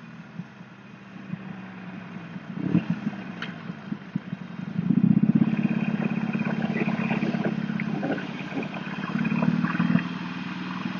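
Motorcycle engine running, picked up by an earbud microphone. It gets louder about halfway through, eases briefly, then swells again near the end, with scattered clicks and knocks over it.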